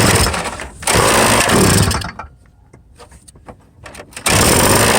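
Small petrol engine being started: two short bursts of cranking and sputtering in the first two seconds, a quieter pause, then it catches a little past four seconds and runs steadily. Its owner says a throttle repair left it unable to idle.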